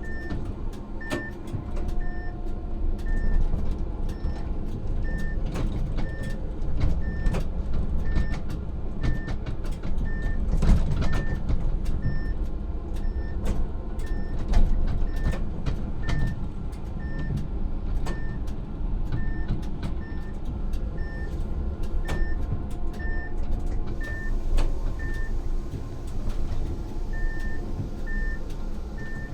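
Tram running, heard from the driver's cab: a steady low rumble with scattered clicks and knocks. A short electronic beep repeats about one and a half times a second throughout, with a brief gap near the end.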